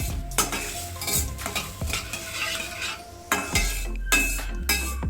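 Spoon stirring and scraping in a kadai of water heating over garlic and chili flakes sautéed in oil, with a light sizzle, the water coming up to a boil.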